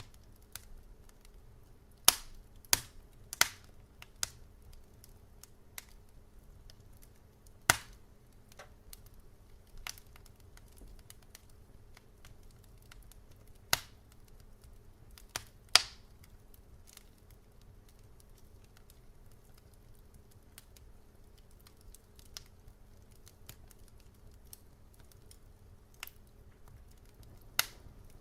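Wood fire crackling in a fireplace: irregular sharp pops and snaps, a handful of them much louder, over a faint steady low rumble.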